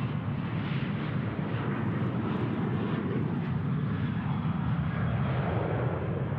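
Jet engines of a Boeing 737 climbing out after takeoff: a steady, loud rumble of jet noise, heaviest in the low range.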